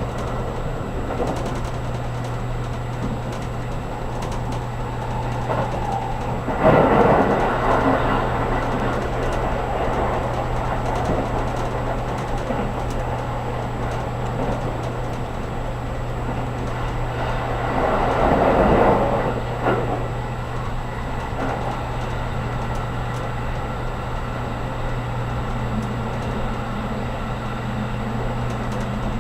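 Interior running noise of a JR Kyushu 783 series express train car at speed: a steady low hum under a rushing rumble. The rushing swells louder twice, briefly after about seven seconds and again for a couple of seconds after about eighteen seconds.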